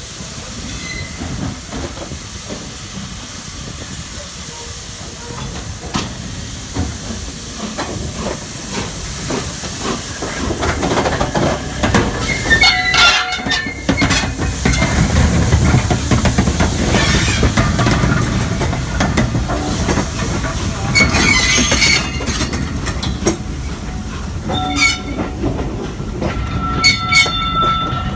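Peppercorn A1 steam locomotive No. 60163 Tornado and its train rolling past at close range: a steam hiss, then a rumble and clatter of wheels on the rails that grows louder through the middle. Several brief high-pitched squeals are heard along the way.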